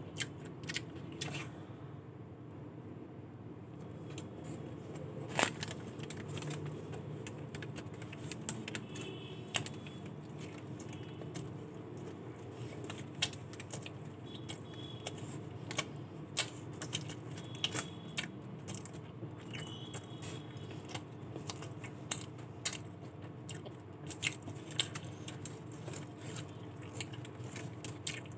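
Close-up eating sounds: chewing a fried chicken burger, with many small sharp clicks and crackles from biting and handling the food, over a steady low hum.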